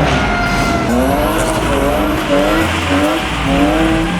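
A truck drifting: its engine revs rise and fall again and again as the driver works the throttle, over the steady squeal of sliding tyres.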